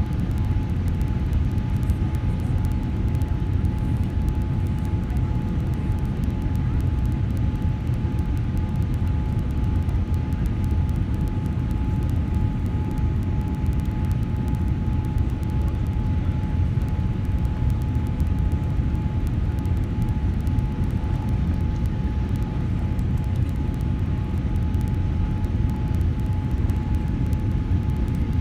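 Steady airliner cabin noise: a low, even rumble of the jet engines and airflow with a thin steady whine above it.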